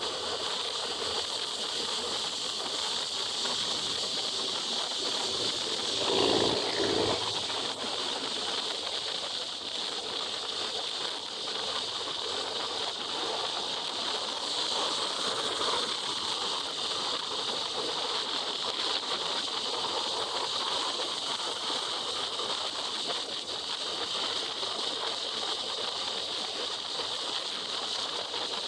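Steady hiss of wind and rain on a motorcycle helmet while riding on a wet highway, with a louder rush about six seconds in.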